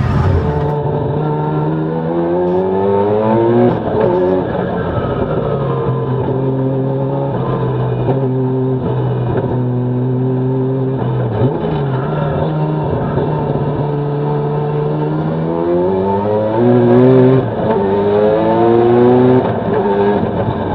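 Mazda RX-7 rally car's engine running hard, its revs climbing and falling with the throttle. The revs rise and break off about 4 seconds in, hold fairly steady through the middle, then climb twice more near the end with a brief drop between, like shifts of gear.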